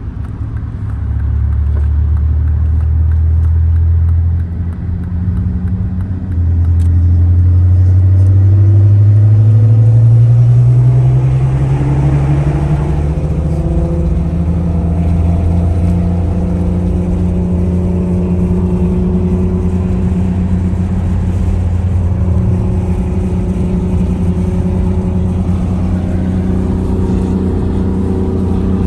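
Engine of a big-turbo car pulling hard under acceleration, its note dipping briefly and then climbing in pitch, before settling into a steady cruise.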